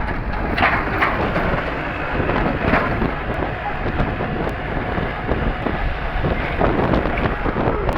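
Massey Ferguson tractor running steadily under load while working an implement, with wind buffeting the microphone.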